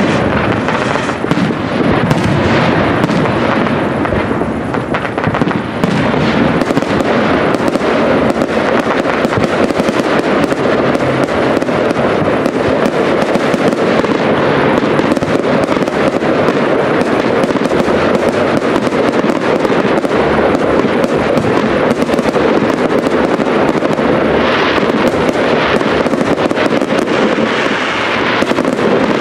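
Large aerial fireworks display: a dense, unbroken barrage of shell bursts and rapid crackling, many overlapping at once with no pause.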